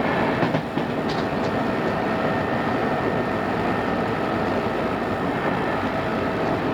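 Odakyu 2600 series electric train running, heard from inside the car on a cassette-tape recording: a steady rumble of wheels and running gear with a constant hum. A few brief clicks come about half a second to a second and a half in.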